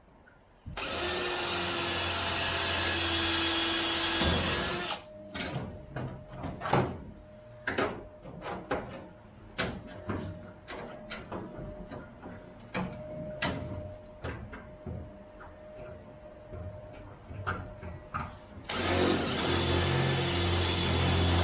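An electric motor runs steadily with a high whine for about four seconds and then stops. For the next thirteen seconds or so, scattered clicks and knocks of metal and tools being handled are heard. Near the end the motor spins up again and runs.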